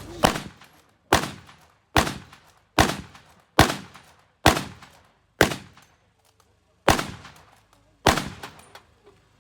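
A rifle fired in rapid succession in a timed rapid-fire drill: nine sharp shots, about one a second, each with a short echoing tail. There is a slightly longer pause between shots about two-thirds of the way through.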